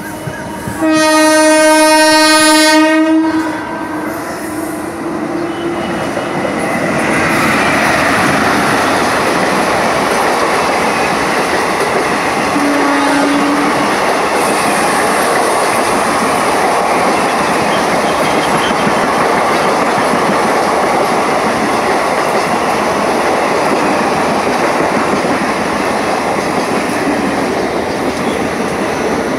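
A train horn sounds one long, loud blast about a second in as the train approaches. It is followed by the steady rolling noise and clickety-clack of passenger coaches running past on the platform line, with a second, shorter and fainter horn blast partway through.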